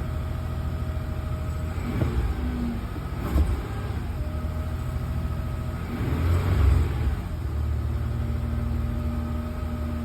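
1989 Toyota 4Runner engine idling steadily as it warms up after a cold start, with short louder swells about two and three seconds in and a longer one around six to seven seconds in.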